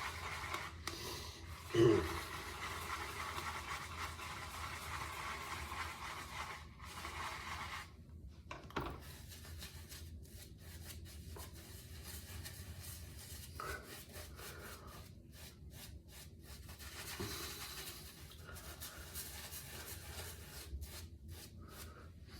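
Synthetic shaving brush swirling and rubbing soap into a lather in a bowl: a continuous scratchy rubbing, stronger for the first several seconds and fainter after.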